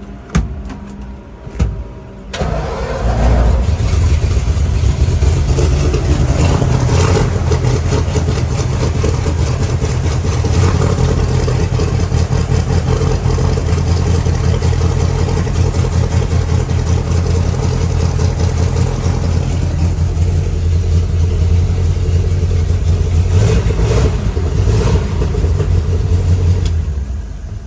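1952 Ford F1's 239 flathead V8 starting: a couple of short knocks, then the engine catches about two seconds in and runs steadily, with several brief blips of the throttle. The level falls away near the end.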